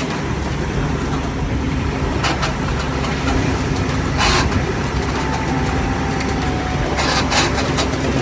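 School bus engine idling, with a steady scratching from a worn belt that needs changing, and a few brief hisses.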